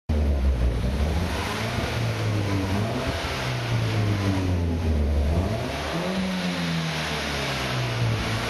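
Exhaust note of an R56 Mini Cooper S with a new John Cooper Works rear silencer: the turbocharged 1.6-litre four-cylinder running with a steady low drone, its pitch dipping and then rising again about six seconds in.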